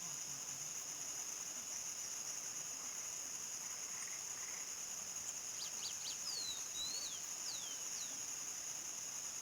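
Crickets chirping in a steady, unbroken high chorus. About halfway through, a bird gives a short run of quick chirps and falling calls.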